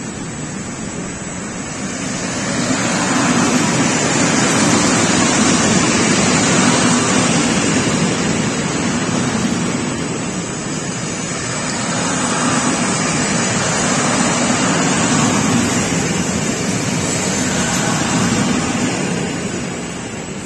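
Loaded freight wagons rolling past close by, a steady rushing rumble of wheels on rail that swells twice and falls away near the end as the last wagon passes.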